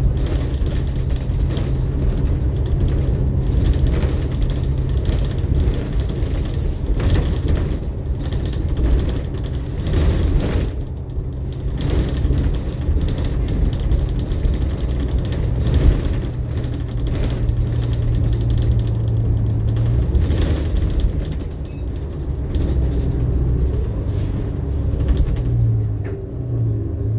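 New Flyer XN60 bus with its Cummins-Westport ISL-G natural-gas engine running as a steady low hum, heard on board, with interior fittings clicking and rattling irregularly over it. The hum's pitch shifts near the end.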